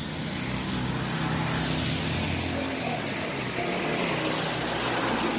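Engine noise from a passing motor vehicle: a steady rushing sound with a low hum that swells a little during the first second or so and then holds.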